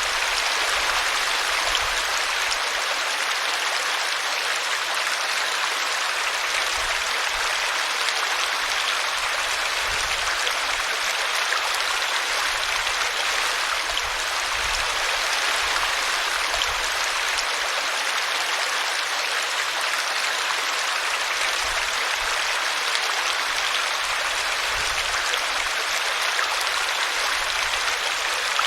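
Small brook running over a tree root: a steady, even rush and babble of water.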